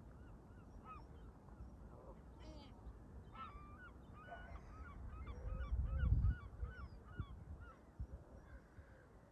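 Canada geese honking, a quick run of calls about two a second starting a few seconds in. Under them a low rumble of wind on the microphone, loudest in a gust about six seconds in.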